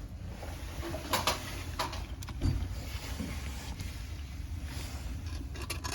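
Faint scrapes and light taps of solder wire being worked into the clogged rim jet holes under a toilet bowl's rim, over a low steady rumble.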